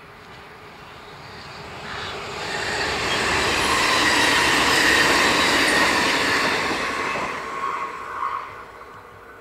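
Dutch Railways (NS) double-deck electric passenger train passing by on the rails. The wheel and rail noise swells as it approaches, is loudest for a few seconds as the carriages go past, then fades, with brief wheel squeals near the end.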